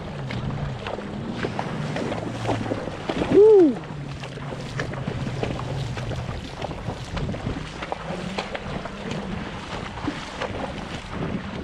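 Wind buffeting the microphone over a steady low engine hum of a water vehicle such as a jet ski. About three and a half seconds in, a short, loud call rises and falls in pitch.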